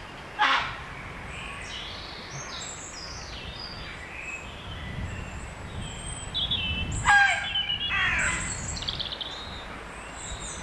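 Dusk woodland birdsong: small songbirds chirping and trilling, a sharp call half a second in, and a loud harsh raven call about seven seconds in.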